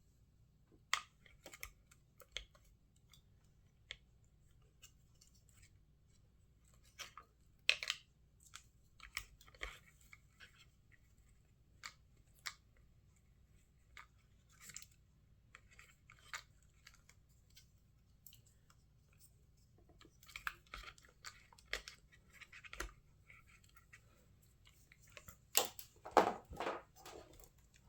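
Faint, scattered clicks, taps and rustles of hands handling small RC truck parts and cleaning them with alcohol prep pads. The rustling grows denser in the last eight seconds.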